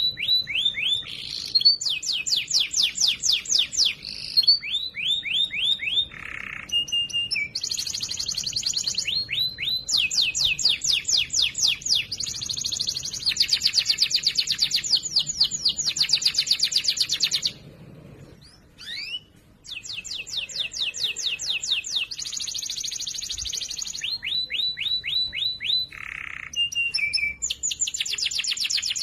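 Domestic canary singing loud, clear song made of rapid trills: fast runs of repeated sweeping notes, one high rolling phrase after another, with a brief pause a little past the middle.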